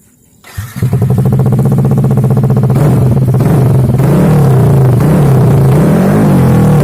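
Yamaha NMAX scooter's single-cylinder engine through an aftermarket SC Project racing exhaust, starting up about half a second in and running loud. From about four seconds in, the throttle is blipped and the revs rise and fall.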